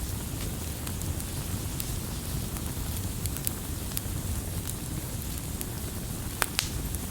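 Wood campfire burning with a steady low rumble and scattered crackles, and two sharp pops about six and a half seconds in.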